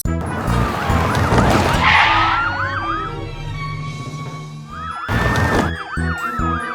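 An emergency-vehicle siren quickly sweeping up and down over background music. It runs for about three seconds, stops, then starts again about five seconds in.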